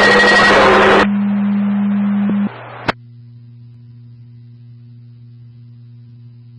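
Police scanner radio: an open channel with loud static hiss and a steady low tone, which drops away after about a second. A sharp click comes near three seconds in as the squelch closes, then a low steady electrical hum.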